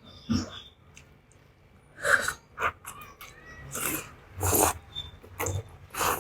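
Instant noodles being slurped and chewed close to the microphone: a series of short, noisy slurps starting about two seconds in, roughly one every second.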